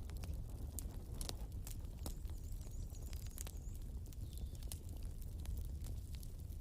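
Wood fire crackling: irregular sharp pops and snaps over a steady low rumble, with a faint wavering high tone about halfway through.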